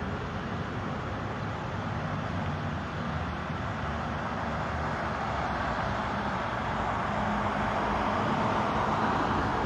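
Steady road traffic noise with a low engine hum, swelling gradually louder toward the end as a vehicle comes closer.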